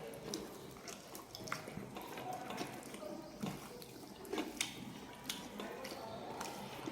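Close-up eating sounds: wet chewing and mouth clicks, coming irregularly, with a few sharper clicks standing out in the middle.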